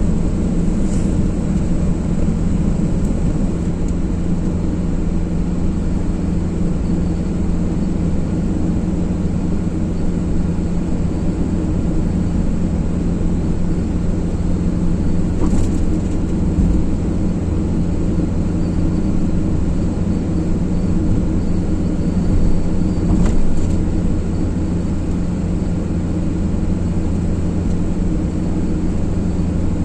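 Steady road and engine noise of a car driving along a motorway, a constant low drone with two faint ticks about halfway and three-quarters of the way through.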